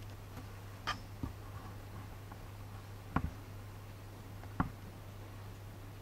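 A few short, sharp taps spread over several seconds, typical of small birds pecking at seeds, over a steady low hum.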